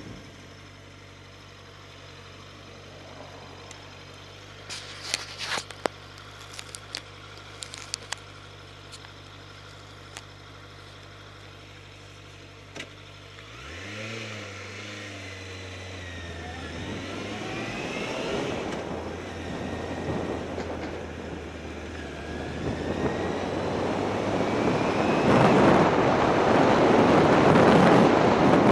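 Motorcycle engine idling steadily with a few sharp clicks, then pulling away about halfway through, its pitch rising as it accelerates through the gears. Wind rushing over the helmet-mounted microphone builds as speed rises toward the end.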